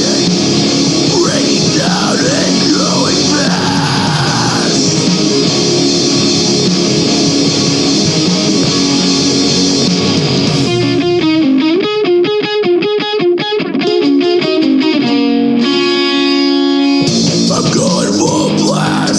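Heavy rock music with distorted electric guitars. Near the middle the full band drops out for a sparser, clean guitar break of a few seconds, then comes back in at full force.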